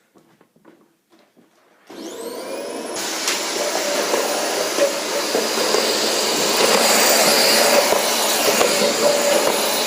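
Vacuum cleaner switched on about two seconds in, its motor whine rising as it spins up, then running steadily.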